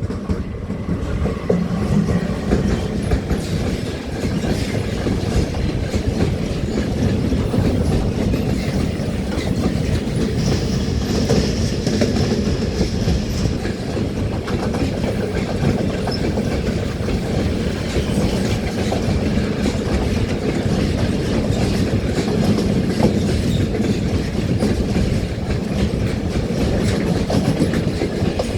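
A train passing at close range, its wheels clattering over the rail joints under a steady heavy rumble that swells in right at the start. A high, thin tone rises above it for a few seconds midway.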